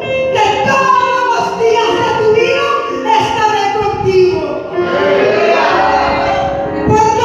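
Voices singing together, with long held notes that slide between pitches, in a reverberant hall.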